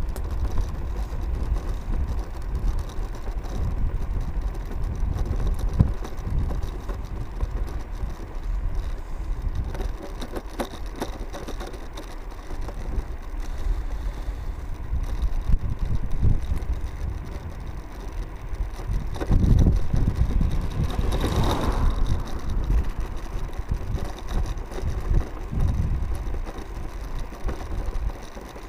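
Ride-along sound of a Mercane electric scooter on the move: steady low rumble of wind on the microphone and wheels on the road. About twenty seconds in it gets louder for a few seconds, with a brief rise and fall in pitch.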